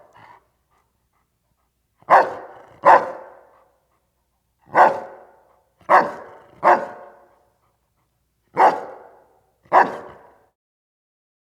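A big dog barking: seven sharp barks, several coming in pairs, with silent gaps between them.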